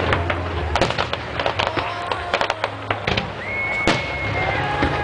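Fireworks going off, a dense run of sharp pops and crackles. About midway a steady high whistle is heard for roughly a second.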